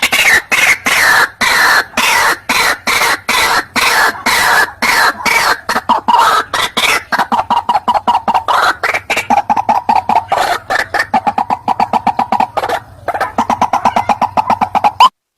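White-breasted waterhen (ruak-ruak) calling in a fast, unbroken run of harsh croaking notes, several a second, with a brief break near the end. This is the bird's loud territorial chorus, played as a trapping lure call.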